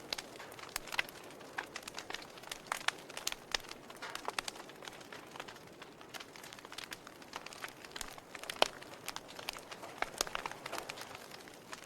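Campfire burning wood, crackling with irregular sharp pops and snaps over a soft hiss; one louder pop about two-thirds of the way through.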